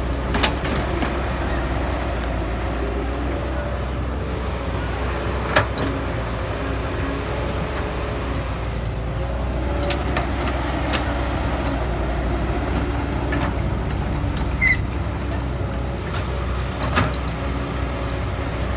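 Cat 312BL excavator's diesel engine running steadily under working load, with a pitched hydraulic whine that rises and falls as the arm moves. Several short sharp knocks, metal on metal, come through it: a few early on, one about five seconds in and more near the end.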